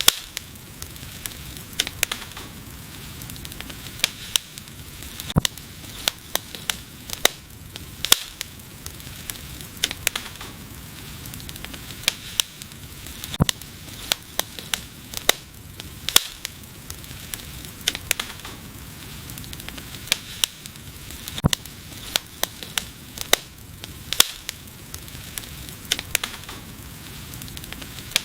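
Wood fire crackling: irregular sharp pops and snaps, a few a second, over a steady low hiss of burning.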